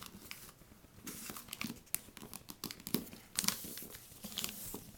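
A sheet of paper being handled and folded, crinkling and rustling in short irregular crackles as the wing fold is creased down, with a few louder crackles past the middle.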